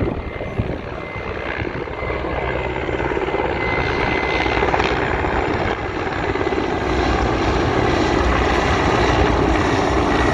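Large military transport helicopters flying past, their engine and rotor noise steady and growing gradually louder.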